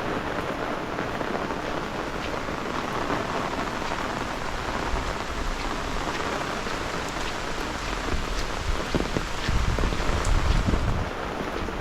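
Heavy rain falling steadily, with scattered individual drop hits. Gusts of wind rumble on the microphone for a second or two near the end.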